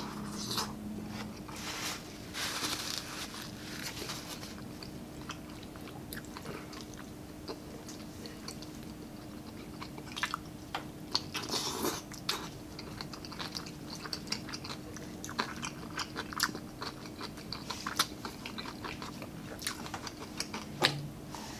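Close-up chewing of stir-fried cabbage and vegetables, with crunching, wet mouth clicks and smacks coming irregularly.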